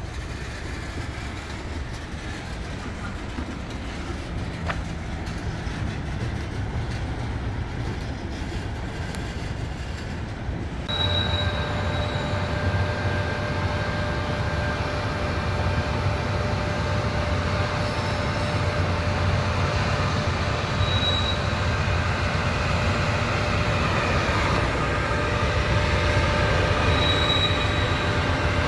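A train rolling along the rails: steady running noise, with a sudden step up in loudness about eleven seconds in, after which high, steady wheel squeal rings over it.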